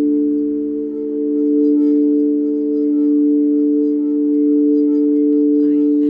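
Singing bowls ringing in a sustained hum of several steady tones that swell and ease gently in slow waves.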